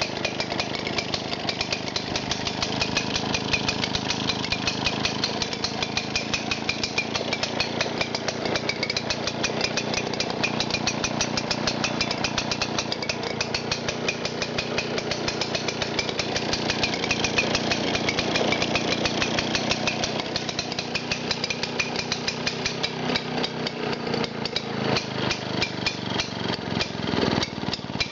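Early Victa Rotomo model 2 two-stroke mower engine running, fitted with new .020 oversize piston rings. It fires fast and steadily, then drops to slower, uneven, spaced firing in the last few seconds.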